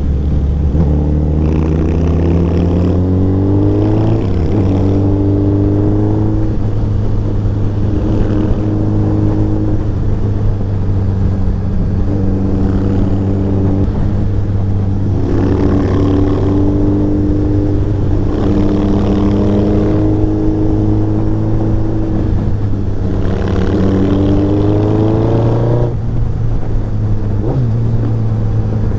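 Royal Enfield Interceptor 650 parallel-twin motorcycle engine under way. Its note climbs as it accelerates and drops sharply at several gear changes, holding steady at cruise in between, over constant wind rush.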